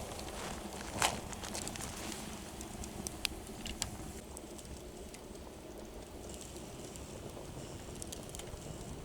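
Wood campfire crackling, with a few sharp pops over a steady low rush.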